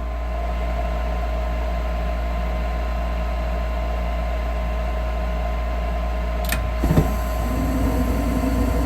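Gas furnace starting up: the draft inducer motor runs with a steady hum and whine, then about seven seconds in a click is followed by a low steady rush as the burners light. The furnace is starting on a gas valve that sometimes fails to open.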